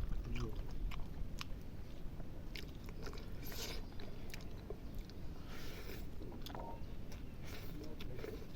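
A person chewing and biting food close to the microphone, with scattered clicks and a few louder crunchy bites about three and a half and six seconds in.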